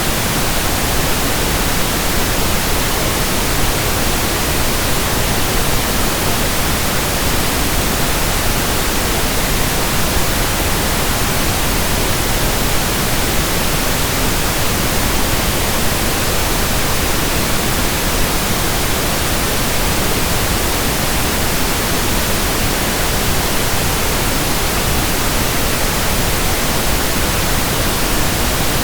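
Steady pink noise: an even, unbroken hiss spread across the whole range, with no changes in level and no rhythm.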